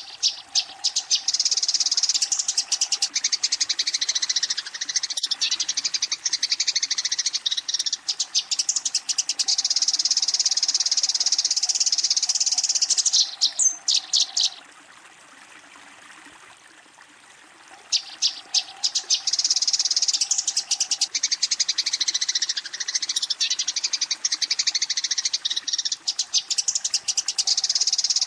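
Eurasian tree sparrows chattering in dense, rapid runs of high chirps: agitated fighting calls, calling out a rival. Two long runs, with a pause of about three seconds halfway through.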